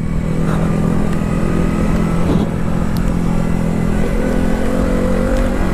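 Motorcycle engine running steadily under way, with a slight rise in engine pitch near the end, over low wind rumble on the microphone.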